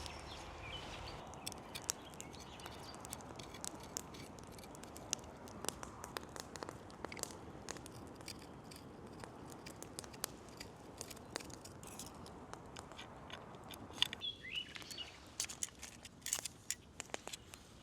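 Outdoor ambience: scattered small clicks and crackles over a soft steady hiss, with a short chirping bird call about fourteen seconds in.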